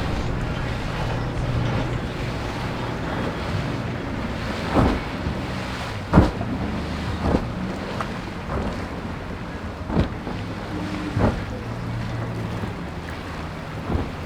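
Motorboat engines running steadily through rough inlet water, with wind and surf noise and about eight sharp thumps at irregular intervals.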